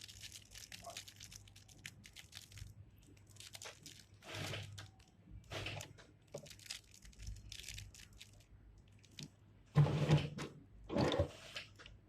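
Scattered clicks and short rustling handling noises as work is positioned in a shoe-repair sewing machine, over a faint steady low hum. A voice speaks briefly near the end.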